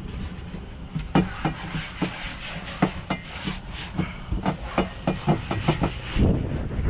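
A quick, irregular run of sharp knocks and clatters, over a low steady rumble, from about a second in until shortly before the end: objects being handled and set down.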